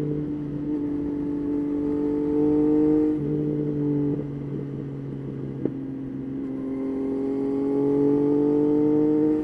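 Yamaha Tracer 9's three-cylinder engine running under way, its pitch climbing slowly, dropping back about three seconds in, then climbing again toward the end. A single short tick about halfway through.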